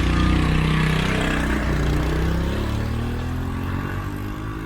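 Small motorbike engine running at a steady speed, its pitch drifting slightly, loudest in the first second or so and easing off a little after.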